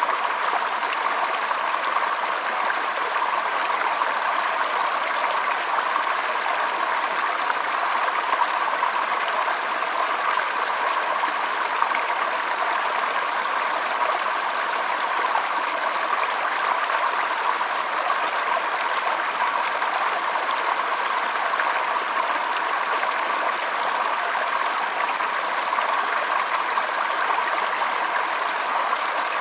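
Shallow stream flowing steadily over stones: a continuous, even trickling and rushing of water.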